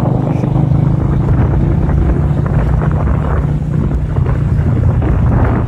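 Roadster 180 motorcycle's engine running steadily while riding, with wind rushing over the microphone.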